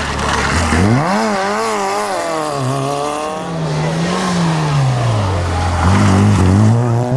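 Autobianchi A112 rally cars' small four-cylinder engines being driven hard through a corner. The pitch climbs sharply about half a second in, wavers, drops, then rises and falls again as the drivers work the throttle and change gear.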